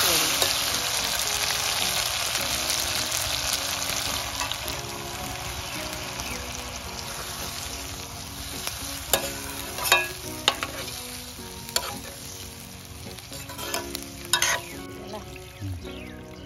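Chicken curry sizzling as it fries in its masala in a stainless steel pot on a camping gas stove, stirred with a spatula that scrapes and knocks against the pot. The sizzle slowly fades, and sharp clinks of the spatula come in the second half.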